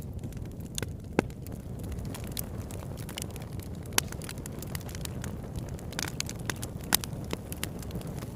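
Wood campfire burning: a steady low rumble of flames with irregular sharp crackles and pops, a few louder snaps among them.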